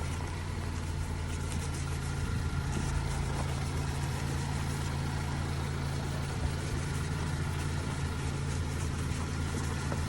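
A motor engine idling steadily: an even, low hum that does not change.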